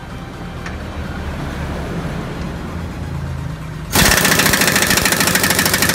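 An impact wrench on a bolt of the scooter's frame starts abruptly about four seconds in with a loud, rapid hammering rattle. Before that there is only a low, steady rumble.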